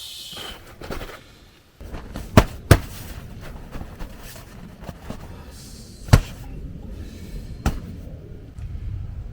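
Four sharp knocks: a close pair about two and a half seconds in, then single ones about six and seven and a half seconds in, over a low steady rumble.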